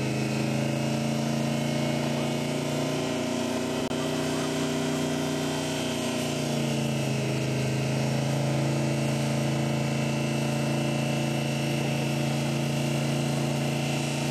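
Straight-piped-sounding 454 big-block V8 of a 1978 Buick Skylark held at high revs through a burnout: a steady, loud engine note that wavers and sags a little in the middle before settling again.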